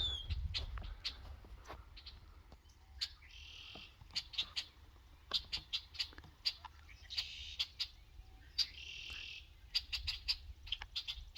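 Birds calling outdoors: many short, sharp chirps and three buzzy trills under a second long, over a low steady rumble.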